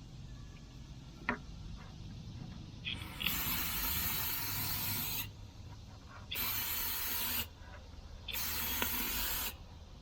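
Cleaning solvent sprayed onto a tractor's hydraulic oil pickup screen in three hissing bursts, the first about two seconds long and the next two about a second each, with a single click a little after the start.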